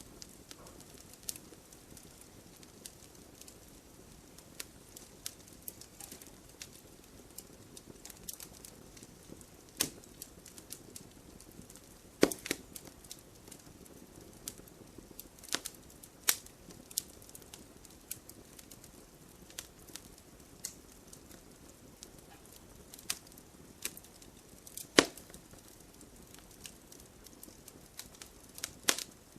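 Burning firewood crackling: irregular sharp pops and snaps over a soft steady rush of the flames, with the loudest pops about twelve seconds in and again near twenty-five seconds.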